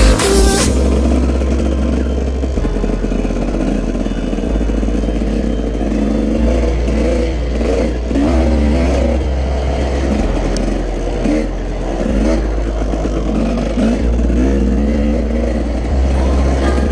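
Dirt bike engine revving up and down as it is ridden, under music with a steady low bass line.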